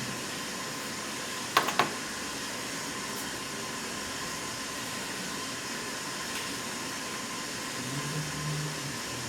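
Steady hiss of background noise, with two sharp taps in quick succession about one and a half seconds in.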